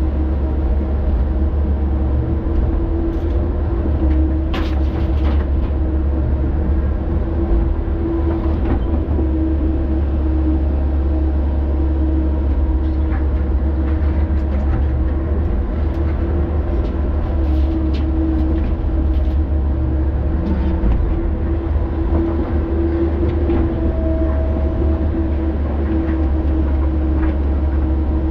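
Diesel engine of a heavy earthmoving machine running steadily under work: a constant deep drone with a steady hum over it and a few faint clanks and clicks.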